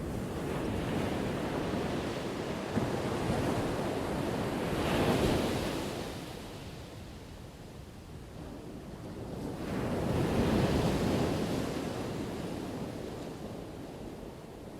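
Ocean waves crashing on the shore: two waves break and wash in, swelling to a peak about five seconds in and again near ten seconds, each falling away between.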